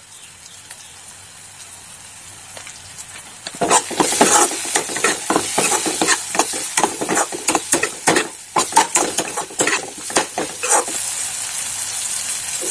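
Tomato and onion masala frying in ghee in a wok, with a soft steady sizzle. From about four seconds in, a metal spatula stirs it, scraping and knocking against the pan for several seconds, then the sizzle goes on alone near the end.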